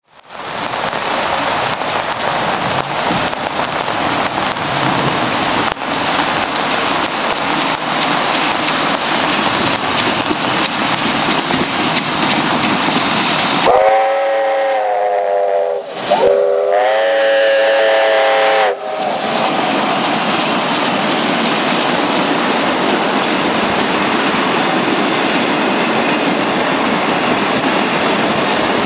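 Victorian Railways steam locomotive R707 running with its train, a loud steady rush of running noise, broken about halfway through by two long chime-like blasts of its steam whistle, the second right after the first.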